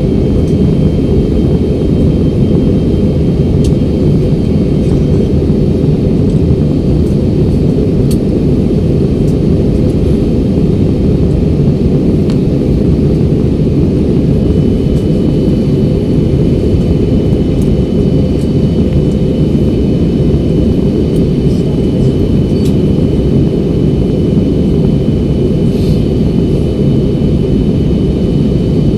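Steady airliner cabin noise during the descent before landing: a loud, even rumble of jet engines and airflow, with a faint thin whine held above it.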